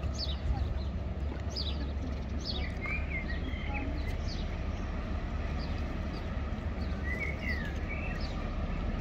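Small birds singing, with repeated short falling chirps and twittering, over a steady low rumble.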